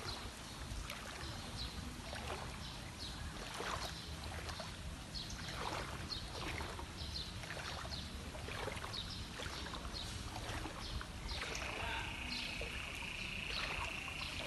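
Water rushing and splashing, with wind rumbling on the microphone; a steady high tone joins in for about the last three seconds.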